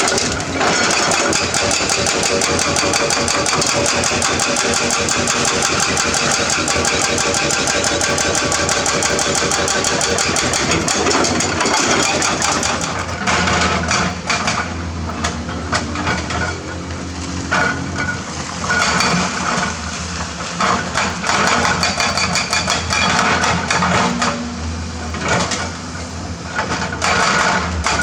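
Hydraulic excavator's diesel engine working under load. It runs steadily for the first dozen seconds, then rises and falls in repeated surges through the second half.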